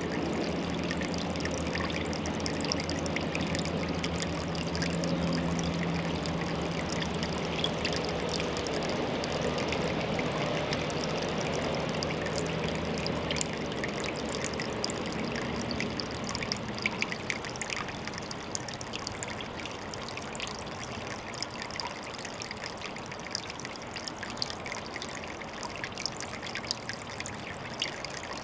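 Water trickling steadily into a pond. A low steady hum runs beneath it for the first half and stops about halfway through.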